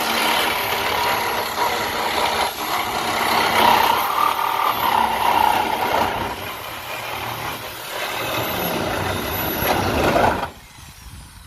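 Reciprocating saw cutting through a 1963 Chevy's sheet-metal roof pillar: a loud, harsh buzz with a whining tone that wavers in pitch as the blade works. It cuts off about a second before the end.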